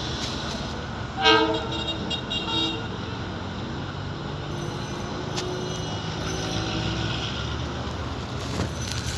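Train horn sounding a short blast about a second in, then a couple of shorter, fainter toots, over a steady low rumble.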